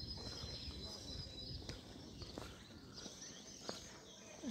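Birds chirping faintly over low outdoor background noise, with a few soft clicks.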